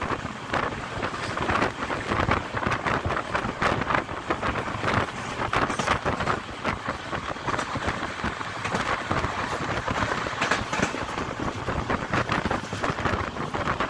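Train running at speed, heard from on board: a steady rush of wheel-on-rail noise full of rapid rattling and clatter, mixed with wind.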